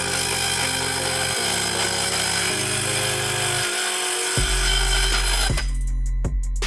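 A homemade drill-powered circular saw cutting, a dense steady noise that stops abruptly about five and a half seconds in, over background music with a bass line; a drum beat is left once the cutting stops.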